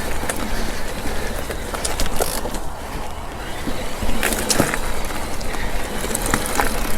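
Mountain bike rolling along a dirt trail: steady tyre noise and wind on the microphone, with scattered clicks and rattles from the bike.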